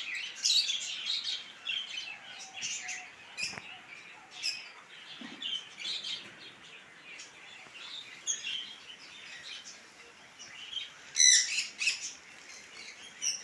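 Caged budgerigars and cockatiels chirping and chattering, with a constant run of short, sharp calls and a louder flurry of calls near the end.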